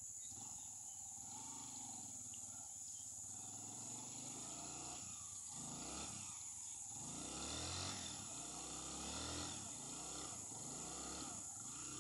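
A small motorcycle engine revving, its pitch rising and falling again and again with short dips about five and six and a half seconds in.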